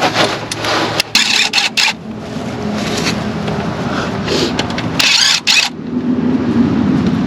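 Impact wrench zipping on transmission pan bolts in two short bursts, about a second in and again near five seconds, over a steady low hum.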